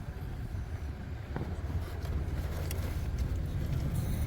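Wind buffeting the microphone: a steady, unsettled low rumble.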